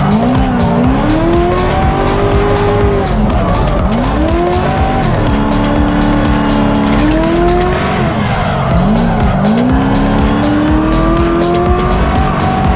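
Drift car engine revving hard, its pitch climbing, holding and dropping several times as it drifts, with tyres squealing. Background music with a fast steady beat plays over it.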